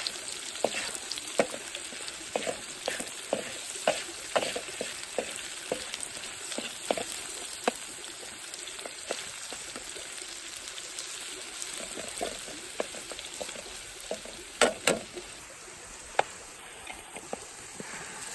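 Potato wedges frying in hot oil: a steady sizzle with irregular crackles and pops, thinning out in the second half, with two louder pops about three-quarters of the way through.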